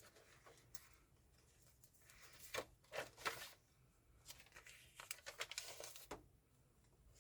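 Faint paper rustling and crinkling as the pages of a handmade junk journal are turned and handled, in a few short clusters.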